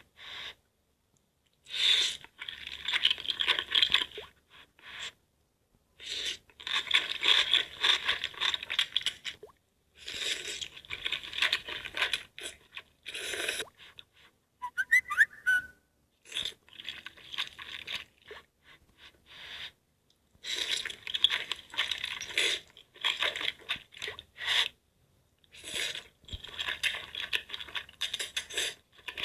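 Close-miked crunching of crisp food being bitten and chewed, in bursts of a few seconds with short pauses between. A brief wavering whistle-like squeak comes about halfway through.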